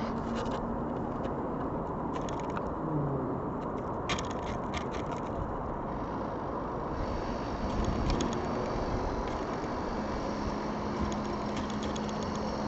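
Steady outdoor background rumble, with several short clusters of light clicks or taps through it.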